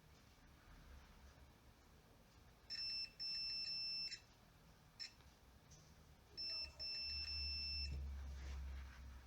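A high electronic beep sounding in two stretches of about a second and a half each, broken by short dropouts, with a brief blip between them.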